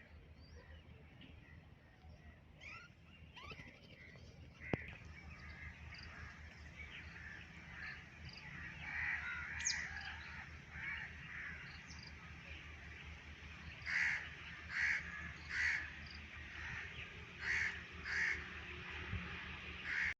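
Several birds calling outdoors, with many short chirps and calls overlapping. Towards the end comes a series of loud, harsh calls about a second apart. A single sharp click about a quarter of the way in.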